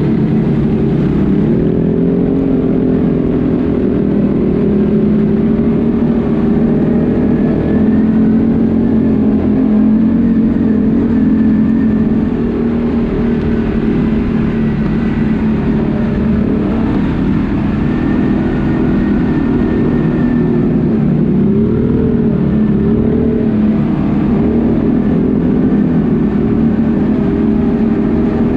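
ATV engine running steadily under way, its pitch rising and falling gently with the throttle.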